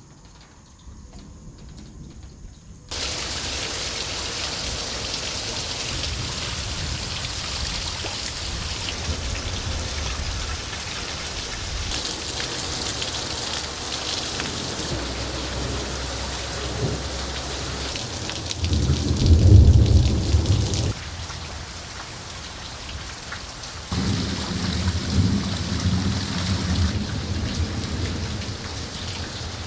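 Heavy rain pouring down, starting abruptly about three seconds in, with thunder rumbling twice: once about two-thirds of the way in and again near the end.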